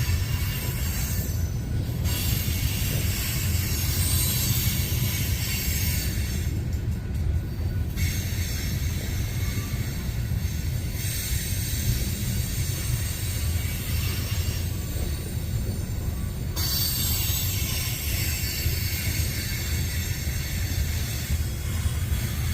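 Loaded coal hopper cars rolling past, a steady low rumble of steel wheels on rail with some wheel squeal.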